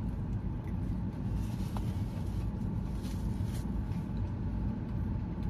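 Steady low rumble inside a parked car with its engine running.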